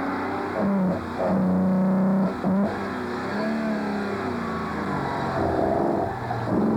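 Classic rally car engines working hard up a mountain climb, revving and changing gear over and over, the note rising and then dropping back at each shift.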